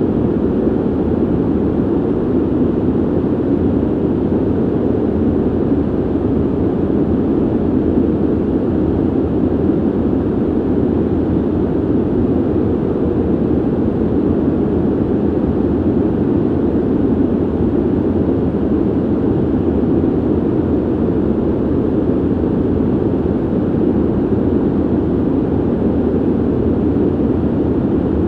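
Steady ventilation noise: an even, low rumbling rush of air, strongest in the low-mid range, with no changes in level.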